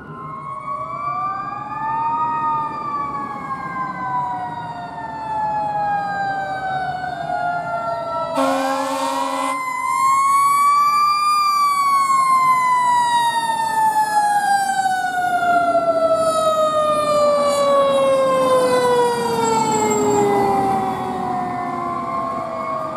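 Fire truck sirens wailing, two overlapping tones that wind up quickly and then fall slowly and at length. About eight seconds in there is a roughly one-second blast of a steady air horn, and the sirens grow louder after it.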